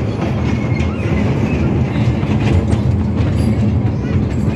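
Small joy train running along its track, heard from aboard a coach: a steady low rumble of wheels and running gear with light rail clatter.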